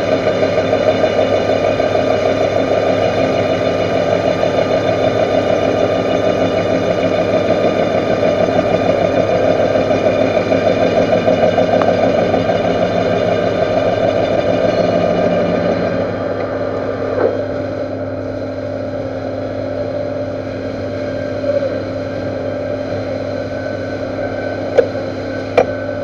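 Metal lathe running steadily while turning the weld-built-up steel tube down to diameter. About sixteen seconds in the sound becomes quieter as the cut eases, and the machine runs on with a few light clicks near the end.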